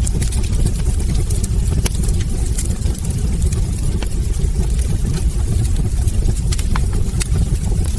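Wood fire burning in a fireplace: a steady low roar of flames with frequent sharp crackles and pops from the logs, scattered irregularly throughout.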